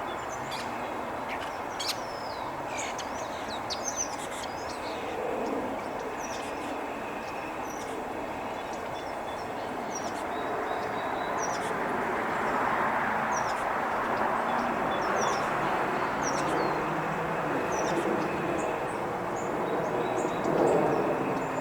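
Small birds give short, high chirps again and again over a steady distant rumble that swells about halfway through.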